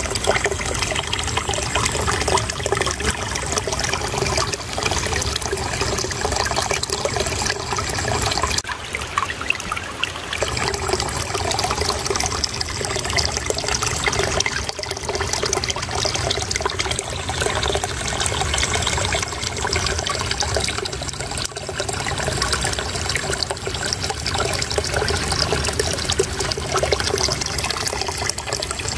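Shallow water flowing and babbling steadily over stones, a continuous trickling splash with small fluctuations.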